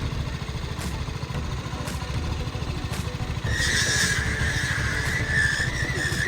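A vehicle engine running with a rapid, even low pulse. A steady higher-pitched hiss joins about three and a half seconds in.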